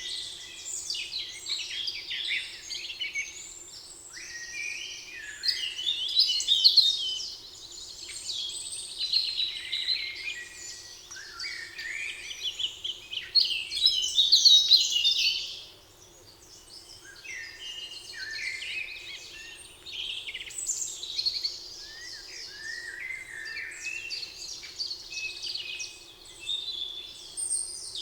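Several songbirds singing at once, a dense chorus of chirps and trills, loudest in two stretches near the middle, over a faint steady low hum.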